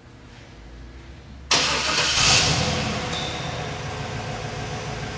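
1996 Chevrolet Impala SS's LT1 5.7-litre V8 starting: it fires suddenly about a second and a half in, flares up briefly, then settles into a steady idle.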